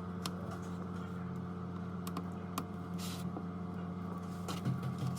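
Steady electrical hum from mains-powered workshop equipment, with a few light clicks and taps scattered through it and a brief hiss about three seconds in.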